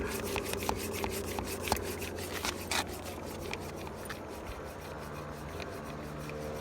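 Mini hand pump inflating a mountain-bike tyre that had gone soft, with quick repeated strokes that rub and click as the pressure nears 40 PSI. The strokes are densest in the first half and thin out towards the end.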